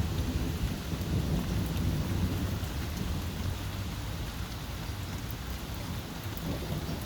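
Thunder rumbling on and on, swelling and easing, over a steady hiss of rain.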